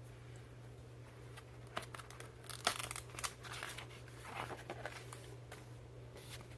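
Paper pages of a picture book being handled and turned: a run of crisp rustles and crinkles in the middle, over a steady low hum.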